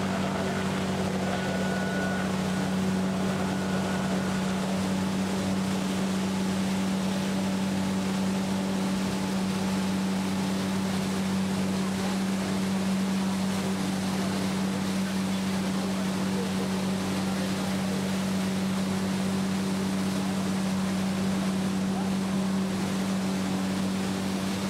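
Tour boat's motor running steadily under way, a constant hum with water and wind noise beneath it.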